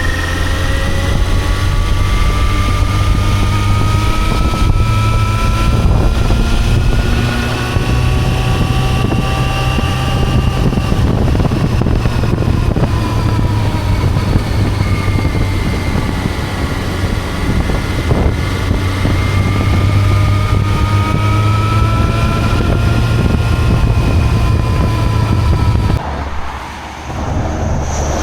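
Yamaha FZ6 S2 motorcycle's inline-four engine running steadily at highway cruise, its pitch drifting gently up and down, with wind and road noise. The sound drops off abruptly near the end.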